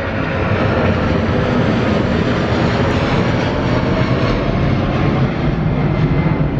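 Boeing 787-9 Dreamliner departing at take-off power, its Rolls-Royce Trent 1000 turbofans making a loud, steady jet rumble.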